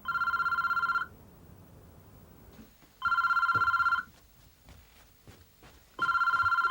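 Telephone ringing: three warbling rings of about a second each, spaced about three seconds apart.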